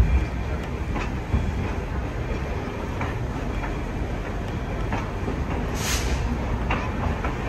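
Railway passenger car rolling slowly along the track, heard from aboard: a steady low rumble with scattered clicks of the wheels over the rails. A brief hiss comes about six seconds in.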